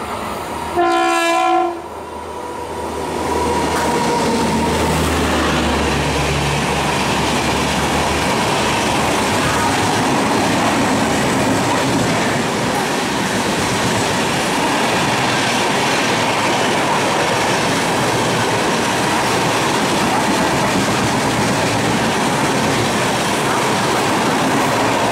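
WAP-7 electric locomotive sounding its horn in one blast just under a second long, about a second in. Then an express train runs through at speed: a loud, steady rush of passing coaches and wheels on the rails.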